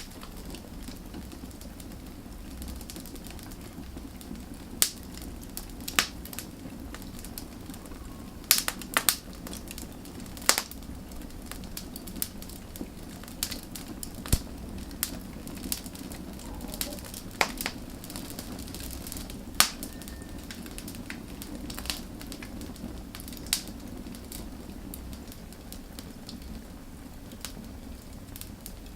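Wood fire burning: a steady low rumble of flames with irregular sharp crackles and pops, a louder pop every second or two.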